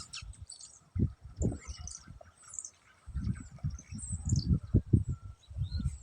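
Small birds chirping and twittering in short, high calls throughout, over louder low rumbling thumps on the microphone that are heaviest in the second half.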